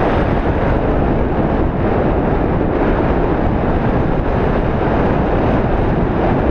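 Airflow in flight under a paraglider buffeting the microphone: a steady, loud rushing.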